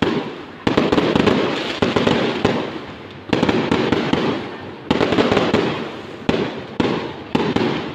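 Fireworks going off in about six bursts. Each starts with a sudden loud report and trails off in dense crackling.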